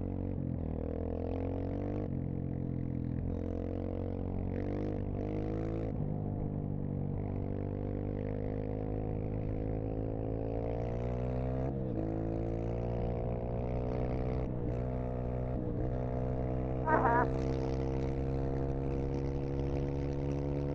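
Dirt bike engine running under way, its pitch climbing slowly and then dropping sharply at each of several gear changes. A brief, louder wavering sound stands out about three quarters of the way through.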